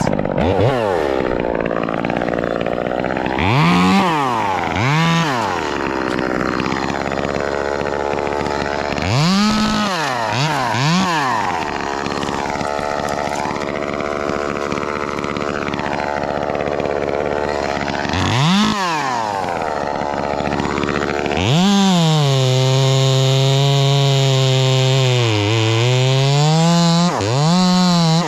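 Two-stroke chainsaw idling and revved up in short blips several times. Near the end it is held at high revs for about six seconds, its pitch dipping once and recovering.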